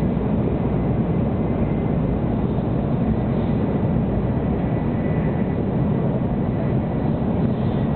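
Steady running noise of a 700 Series Shinkansen at speed, heard inside the passenger cabin: a constant deep rumble and rush, with a faint high steady tone above it.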